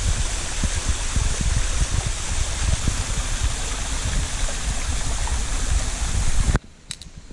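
Benton Falls, a waterfall, rushing steadily with a deep rumble, cutting off suddenly near the end.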